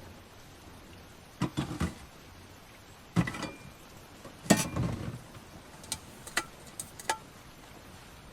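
A series of knocks and clatters, several in quick clusters with the loudest in the middle, a few leaving a brief ringing tone, then a handful of lighter clicks, over a steady low hiss.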